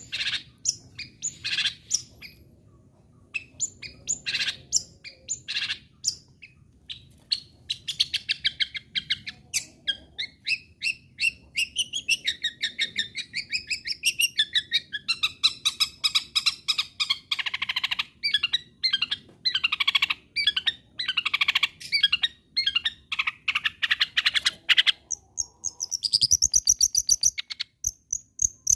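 Long-tailed shrike (cendet) singing: a few separate harsh calls, then a long, rapid, varied run of chattering song notes. Near the end it gives way to a fast, high, even buzzing trill.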